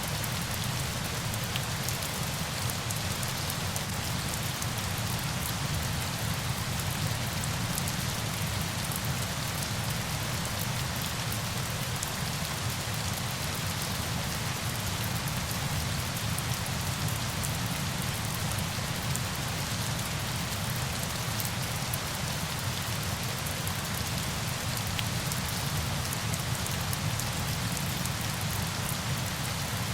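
Steady rain: an even hiss of many drops with a low rumble underneath.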